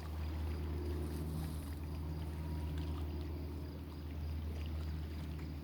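Steady low hum with faint water sounds from a kayak out on a lake.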